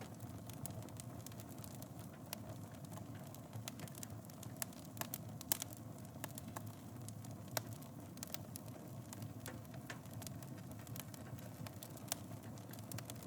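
Wood fire in a fireplace burning with a steady low rush and irregular crackles and pops, a few sharper snaps among them.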